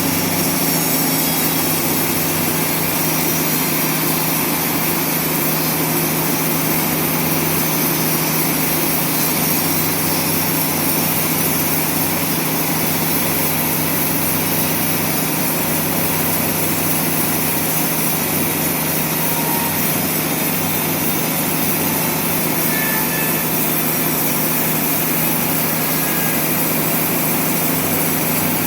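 Sawmill machinery running steadily: a continuous, loud engine-like drone with a constant low hum that does not let up.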